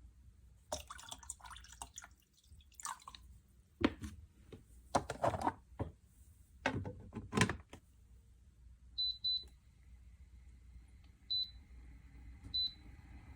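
Handling knocks and clatter on a Dreo ultrasonic cool-mist humidifier, then four short high electronic beeps from its control panel: two close together, then two more a second or so apart.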